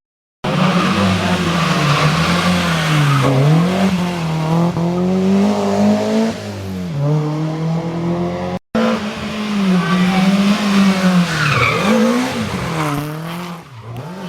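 Historic rally cars driven hard on a special stage, engines revving up and dropping back repeatedly through gear changes and corners, with tyres squealing. The sound drops out briefly twice, about half a second in and near the middle, where the footage is cut.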